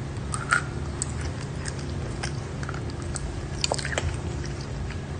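Close-up mouth sounds of a person biting and chewing a spoonful of crunchy, chalky white powder: irregular crisp crunches and crackles over a steady low hum.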